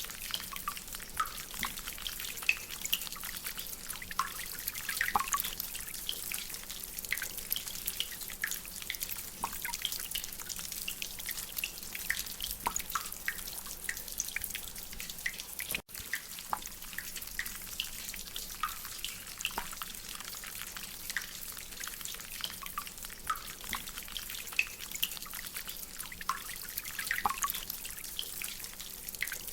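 Rain with water dripping from a drainpipe: irregular, quick plinking drips over a steady hiss of rain. The sound cuts out for an instant about halfway through.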